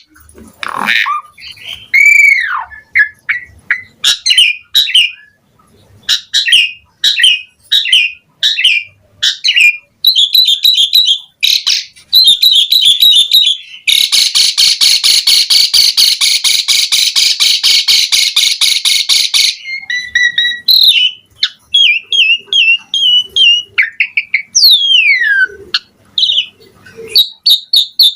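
Asian pied starling (jalak suren) singing a loud, varied song of whistles, rising and falling glides and short chattering phrases, with a long fast rattling chatter from about 14 to 19 seconds in.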